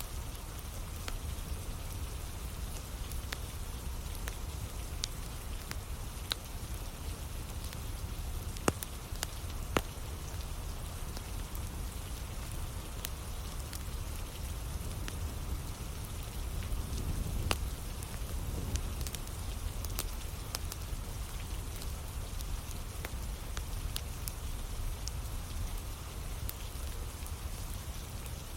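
Steady rain falling, with a wood fire crackling: scattered sharp pops, two of them louder about a third of the way in.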